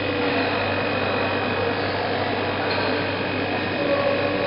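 Steady mechanical hum of a running vapour-compression refrigeration rig, with its compressor and axial condenser fan, with a few steady tones over an even noise.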